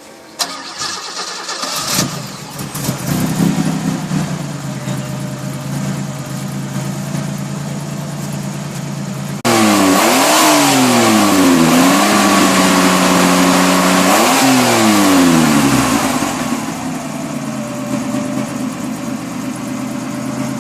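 Ford Capri with a May turbo conversion being cranked by the starter and catching after about two seconds, then idling steadily. About halfway through it gets much louder and the engine is revved up and back down twice, then settles to idle again.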